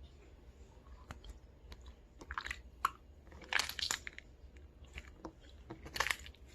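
Mixed slime worked by hand, making crackly crunches and squishes, with a few louder crunches near the middle and again near the end.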